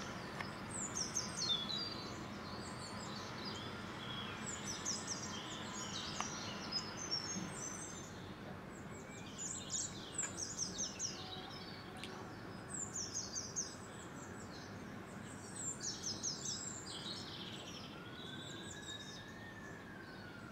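Small birds chirping in repeated bursts of quick, high, falling notes over a steady outdoor background hum. Near the end a faint tone rises and then falls away.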